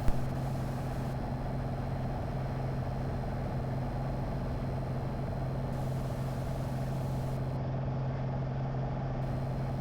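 Single-engine Piper Arrow's piston engine and propeller running steadily in flight, a constant low hum with no change in pitch.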